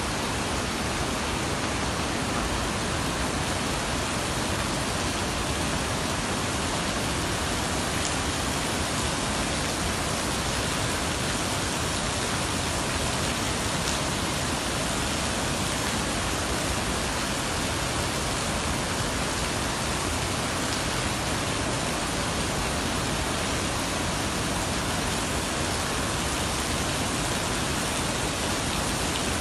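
Waterfall: a steady rush of falling water, an even hiss spread across all pitches with no breaks or changes.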